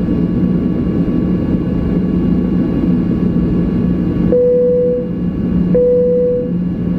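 Steady cabin hum of a Boeing 737-800 on the ground before takeoff, with two single chime tones of the same pitch about one and a half seconds apart in the second half, each lasting under a second.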